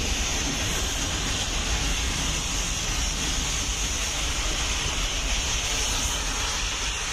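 Nilgiri Mountain Railway toy train running: a steady low rumble with a constant hiss over it.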